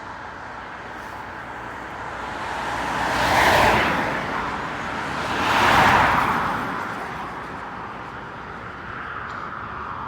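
Two road vehicles pass by close, one after the other about two seconds apart, each a brief swell of tyre and engine noise that rises and fades. Steady jet engine noise hums in the background.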